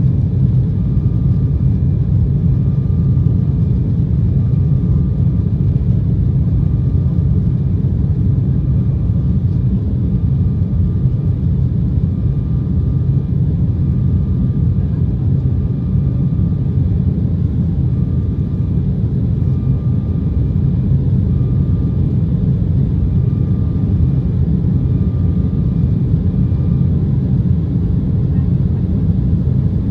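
Steady rumble of an Embraer 190 airliner heard from inside the cabin: its General Electric CF34 turbofan engines and the airflow past the fuselage, holding level with no spool-up or change. A faint high tone repeats evenly in short beeps underneath and stops near the end.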